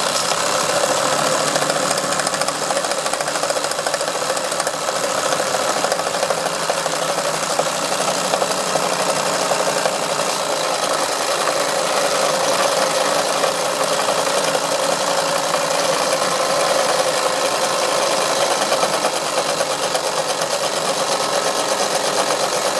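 Wilesco D141 toy steam engine running steadily, driving a model workshop saw that is slowly cutting into wood, with a fast, even mechanical rhythm.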